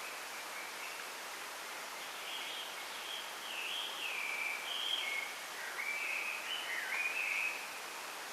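A songbird singing a varied phrase of clear, stepping and sliding whistled notes, starting about two seconds in and ending near the end, over a steady rustling hiss of wind in a bamboo grove.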